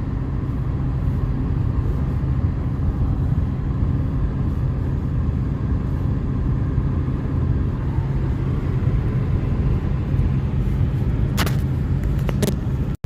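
Steady low rumble of a moving road vehicle heard from inside, engine and road noise, with two short clicks near the end.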